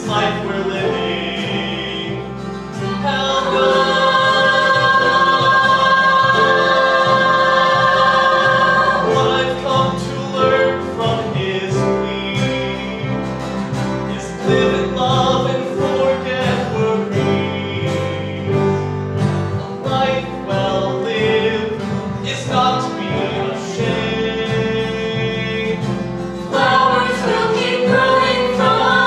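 Music: several voices singing together in harmony with instrumental accompaniment, holding a long chord from about three seconds in.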